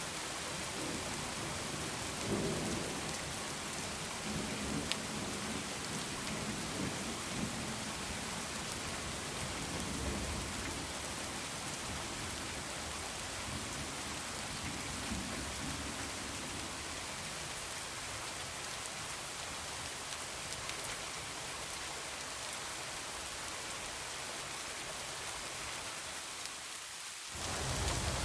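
Steady heavy rain falling, with low rolling thunder rumbling through the first half. Near the end the sound drops out for a moment and comes back with a deeper rumble.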